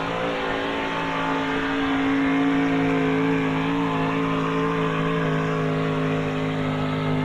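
Gas-engined pulling truck's engine running at high revs, held nearly steady at full throttle under load.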